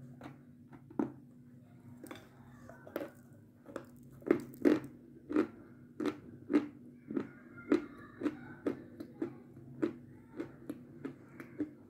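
Close-up chewing of a soft, dry, powder-coated white confection: wet mouth smacks and clicks, sparse at first, then about two a second and louder from about four seconds in.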